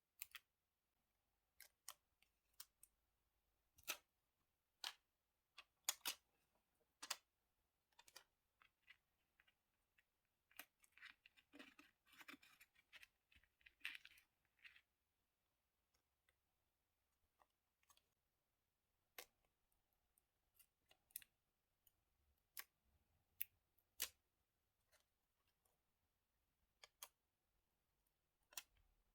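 Scrapbooking at a desk: scattered sharp clicks and taps as scissors, glue tape and paper are handled and set down. A dense stretch of crinkling or snipping runs from about ten and a half to fifteen seconds in.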